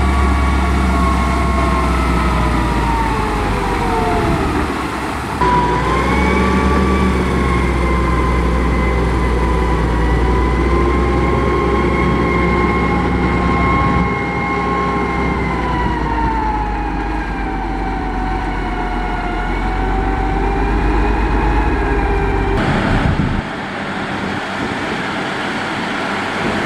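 Heavy diesel construction machinery running under load, a deep steady rumble with a whining tone that slowly rises and falls in pitch. The sound changes abruptly a few times as the footage cuts between machines.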